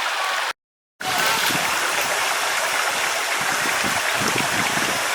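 Mountain stream rushing over rocks, a steady water noise. It drops out to dead silence for about half a second near the start, then comes back a little louder.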